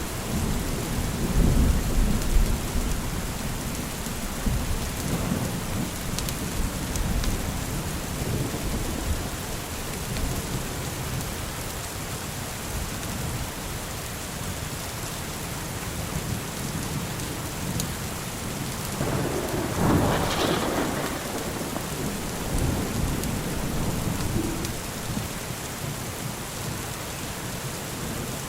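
Steady rain falling, with thunder rumbling low in the first few seconds and a louder peal of thunder about two-thirds of the way through.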